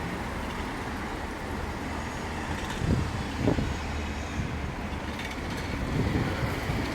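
Sandstorm wind buffeting the microphone in gusts over a steady low rumble.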